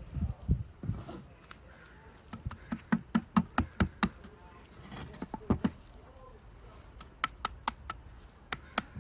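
Light, sharp taps and clicks from hands working soil and plants in a small 3D-printed plastic pot. A quick run of about ten comes in the middle, with a few more scattered near the end.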